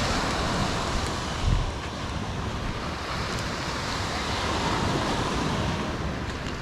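Ocean surf washing onto the beach, with wind gusting on the microphone, rumbling unevenly and loudest about a second and a half in.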